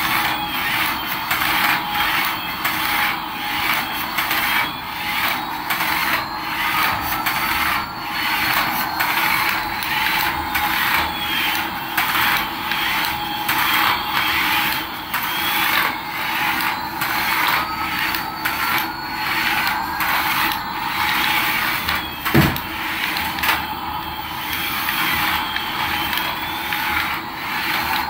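Battery-powered toy's small motor and plastic gears running with a steady rattling clicking, while thin electronic tones slide slowly up and down. One sharp knock about 22 seconds in.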